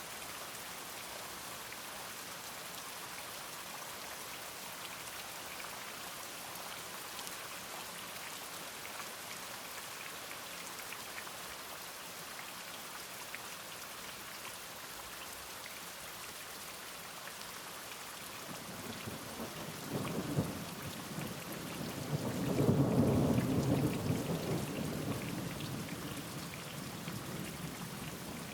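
Steady rain falling, with a roll of thunder that builds about two-thirds of the way in, peaks and slowly fades.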